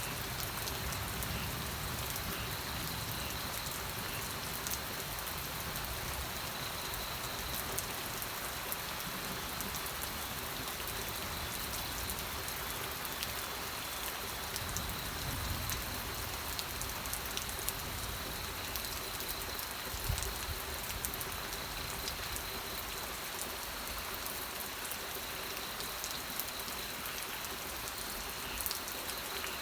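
Steady rain falling, with many sharp individual drop ticks over an even hiss, and a faint steady high tone underneath.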